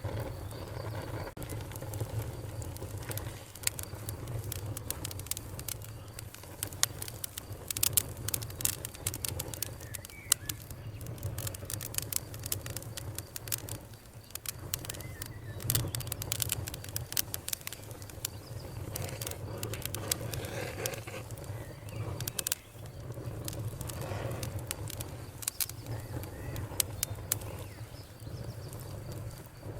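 Fire crackling, with many sharp pops and snaps over a steady low rumble.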